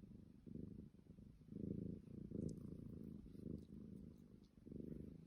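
Domestic cat purring softly, the purr swelling and fading about once a second.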